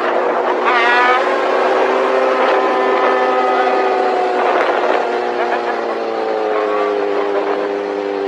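Motorcycle engine held at steady high revs, its pitch sagging slightly after about five seconds. A voice is heard briefly about a second in.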